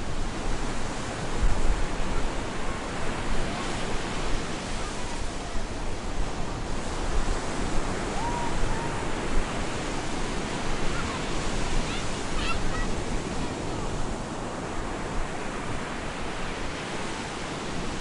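Stormy surf: waves breaking on a beach, a dense rushing wash that swells and eases. A few faint, short, high cries show through it about halfway.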